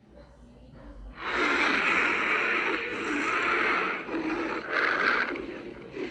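Frost worm monster sound effect: a harsh, hissing growl that swells in about a second in, holds for about three seconds, then comes again in a shorter second burst near the end.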